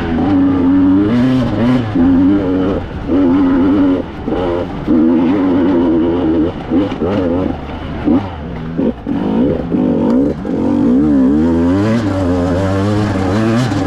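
Two-stroke enduro motorcycle engine revved hard in repeated bursts, on and off the throttle, its pitch climbing and dropping again and again.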